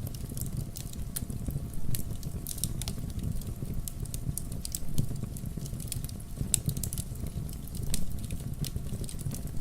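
Wood logs burning in a fireplace: a steady low rumble of the flames with irregular sharp crackles and pops, a few louder pops about two, five and eight seconds in.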